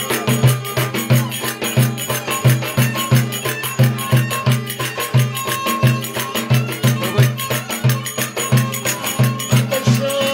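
Traditional folk dance music with a steady, fast drum beat, about three strokes a second, and jingling percussion over a melody line.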